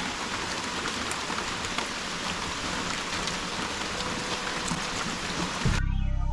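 Heavy rain pouring down steadily. Near the end the rain cuts off abruptly and background music begins.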